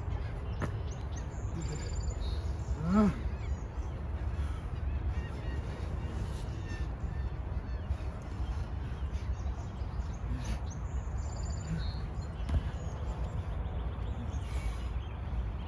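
Faint bird chirps over a steady low background rumble, with one short rising-and-falling call about three seconds in.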